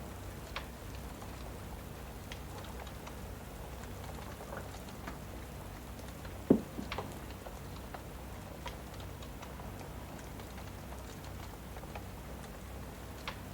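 Steady rain ambience mixed with the scattered crackles of a wood fire, with one much louder pop about halfway through.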